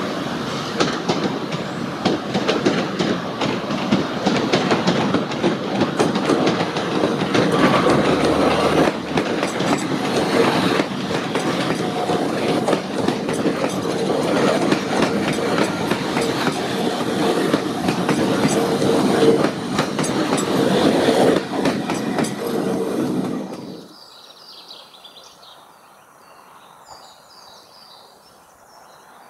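A double-deck electric passenger train rolls through station tracks, its wheels clattering over points and rail joints. Near the end the sound cuts off suddenly, leaving a quiet outdoor background with birds chirping.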